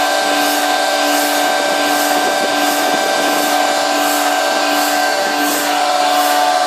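Truck-mounted concrete pump running while pumping concrete: a steady whine made of several tones over a hiss that swells a little under twice a second. This is the extraneous noise in the pump's operation that is being looked into.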